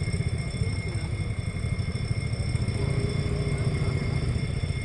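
A low engine running steadily, its rumble made of rapid even pulses, with faint steady high-pitched tones above it.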